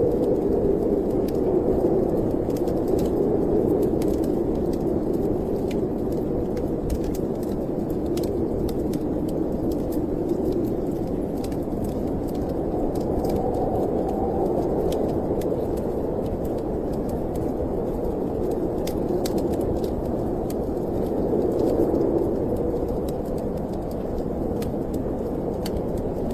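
Storm wind blowing in a steady low rush that slowly swells and eases, with a wood fire crackling in small scattered pops over it.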